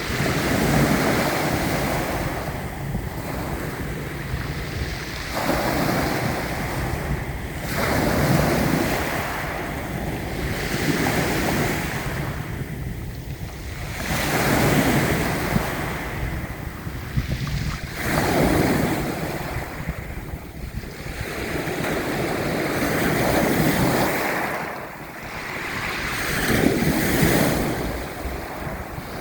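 Sea waves breaking and washing in, the surf swelling and falling every two to three seconds, with wind buffeting the microphone.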